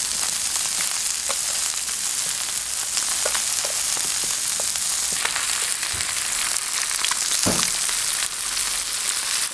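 Food sizzling steadily on a hot electric plancha griddle: bacon, eggs, asparagus and halloumi frying. Occasional light clicks from metal tongs turning the asparagus, and a knock about seven and a half seconds in.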